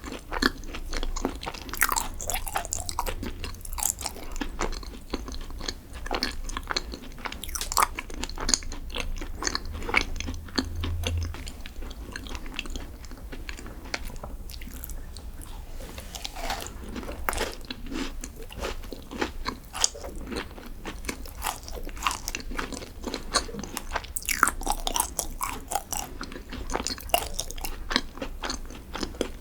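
Close-miked eating sounds: bites, crunching and chewing of chocolate desserts, a dense run of crisp crackles and small clicks.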